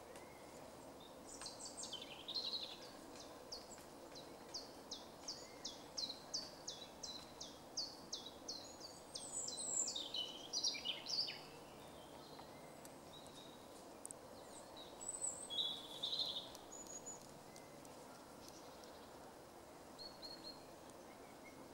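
A bird calling a long series of short, high notes, each falling in pitch, about two to three a second for some ten seconds, followed by a few scattered calls.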